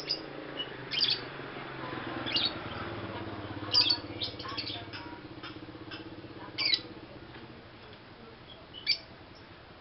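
Young pastel blue lovebird giving short, sharp squawking chirps every second or so, seven or eight in all. A low hum rises a couple of seconds in and fades out after about seven seconds.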